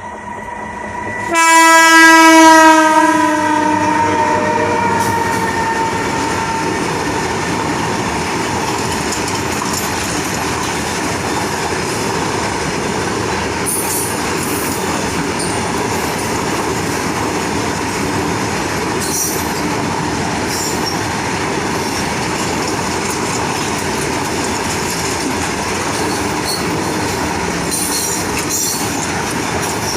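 Indian Railways train horn sounding loudly about a second and a half in, one held chord fading over a few seconds. Then the steady rumble and rattle of the train running on the rails, with a few brief high squeals and clicks later on.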